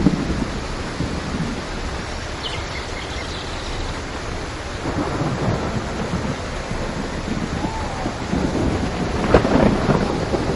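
Steady heavy rain with low rumbling thunder underneath, swelling a little near the end.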